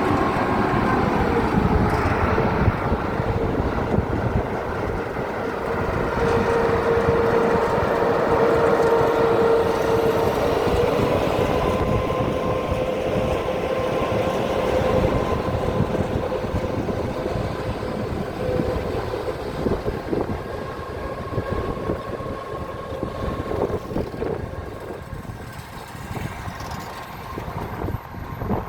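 EP2K electric locomotive hauling a passenger train away from a station, with a steady whine over the low rumble of the train on the rails. The whine rises slightly in pitch about ten seconds in, and the sound fades gradually over the last third.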